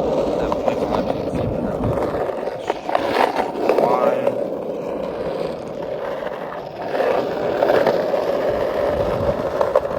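Metal skateboard's wheels rolling over pavement, a steady rumble with occasional clicks and knocks.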